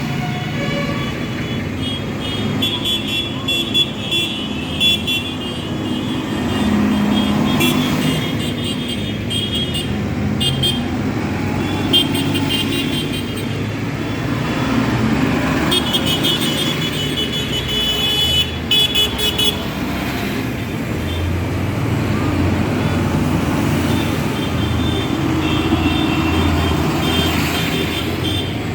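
Tractor engines running as a line of tractors drives past, with horns sounding several times over the steady rumble.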